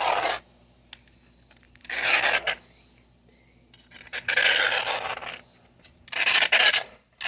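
Scraper scraping caked grass clippings off the underside of a Toro 22-inch mower deck: four long, rasping strokes about two seconds apart, with lighter scraping between them.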